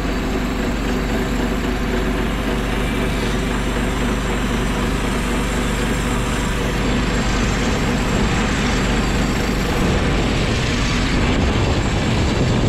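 Norwood HD36 portable bandsaw mill cutting through an oak log, its gas engine running steadily under load while the band blade saws; the cut goes through easily, just like butter.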